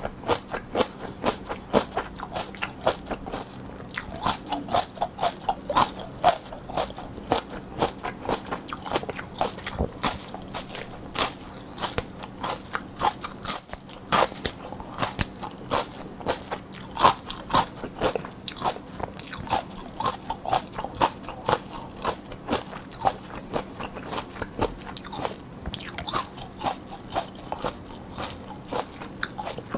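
Close-up crunching and chewing of raw mini sweet peppers: rapid crisp, wet crunches as the firm pepper flesh is bitten and chewed.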